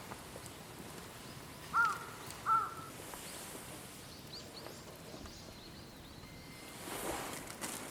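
Two short animal calls about two-thirds of a second apart over quiet outdoor ambience, followed by fainter high chirps and a brief rustle near the end.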